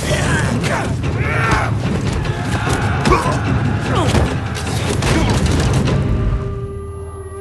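Film soundtrack: booms, crashes and impacts over dramatic music, dying away about six seconds in to a held musical drone.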